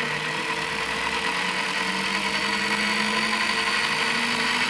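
Commutator motor of a drill press running steadily under a TDA1085C speed controller, with a low hum and a strong high hiss.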